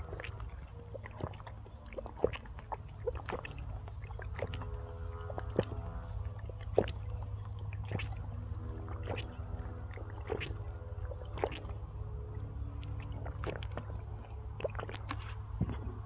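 Close-up eating sounds: a person chewing, with irregular small wet clicks and smacks scattered throughout, over a steady low hum.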